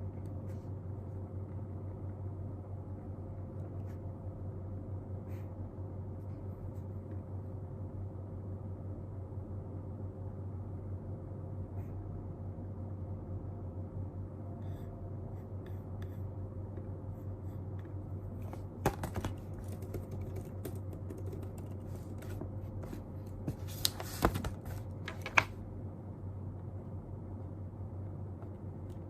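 Steady low electrical hum of room noise, with two short clusters of sharp clicks and taps, like keys or a pen on a desk, about two-thirds of the way through and again a few seconds later.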